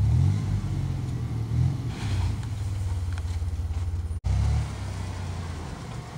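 GMC Jimmy's engine running under load, with three short revving surges, the last just after a split-second break in the sound.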